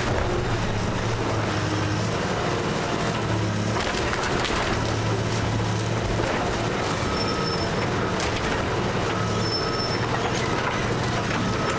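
Heavy demolition machine's engine running steadily while a wooden house is crushed, with scattered crunching and splintering of wood.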